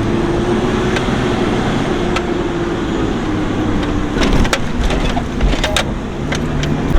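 Toyota Land Cruiser troop carrier driving over a rough, rutted desert track: a steady engine drone with scattered knocks and rattles from the bumps, busiest about four to six seconds in.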